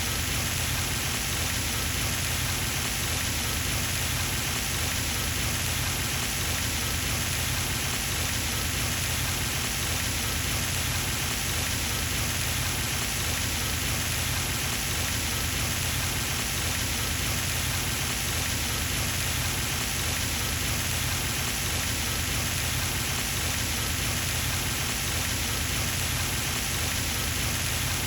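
Pond fountain spraying and splashing back onto the water: a steady, unbroken rush of falling water.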